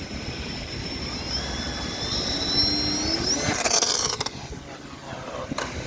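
Model aeroplane's motor and propeller whining, its pitch rising as the throttle is opened for take-off. About three and a half seconds in there is a short burst of rushing noise, and near the end a sharp click.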